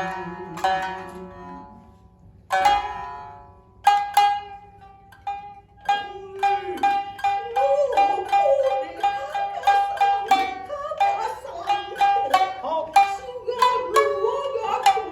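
Shinnai-bushi shamisen playing: plucked notes that break off briefly, resume with a sharp stroke, and carry on with a high-tuned second shamisen. From about six seconds in, a drawn-out, wavering chanted vocal line joins the strings.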